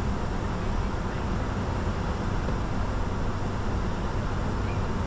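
Steady cockpit noise in a Bombardier Challenger 605 business jet: an even rush of engine and airflow noise with a constant low hum, no change in pitch or level.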